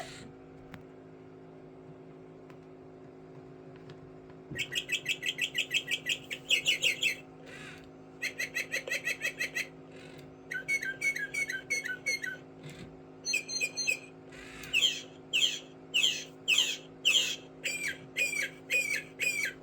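Mechanical singing-bird automaton whistling bird song over a steady low hum. After a few seconds of hum alone, it starts fast runs of repeated chirping notes with short pauses between them, then moves on to single swooping whistles near the end.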